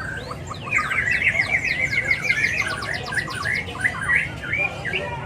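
Caged songbirds singing: a fast, varied stream of chirps and whistles, densest from about a second in, with more birds chirping behind.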